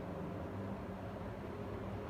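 Model train running on the layout, a steady low hum over a soft noise.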